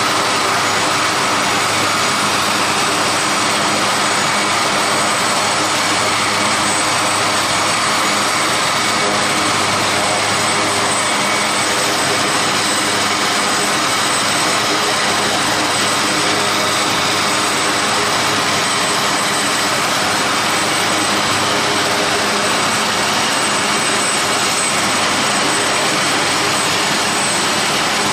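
Aircraft turbine engines running at a steady pitch and level: a dense, even rush with a faint high whine.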